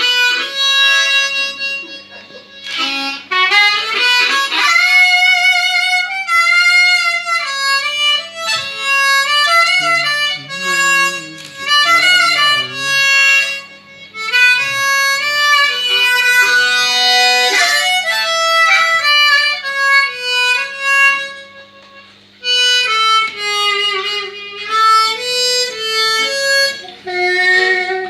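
Blues harmonica played solo in quick phrases of held and sliding notes over a steady low hum, with a brief break about 22 seconds in.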